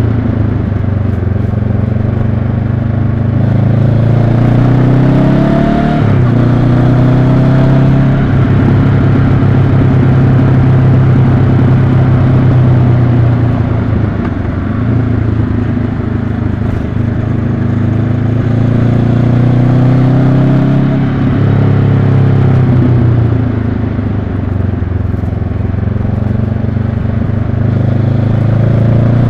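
2022 Honda CB500X's parallel-twin engine running under way, its revs climbing and falling several times, with a sudden drop about six seconds in.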